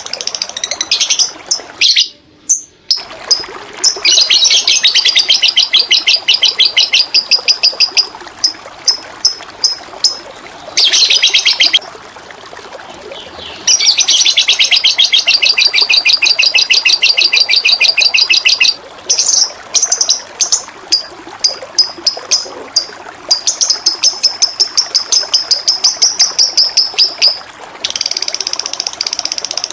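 A songbird singing loud, rapid, high-pitched trills that run for several seconds at a time, with short chirps in between, over a steady rush of flowing water. The sound drops out briefly about two seconds in.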